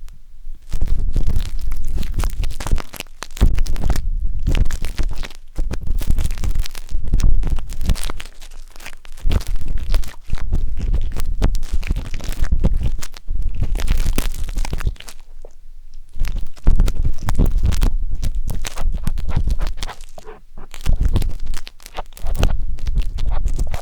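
Wooden tanghulu skewer scraping and rubbing inside a 3Dio binaural microphone's silicone ear, close and loud with a deep rumble, in runs of strokes a few seconds long broken by short pauses.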